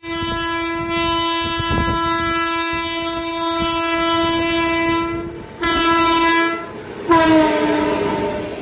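Indian Railways train horn sounding as the train runs through the station at speed: one long blast of about five seconds, a short blast, then a third blast that drops in pitch as the train passes, over the clatter of the wheels on the rails.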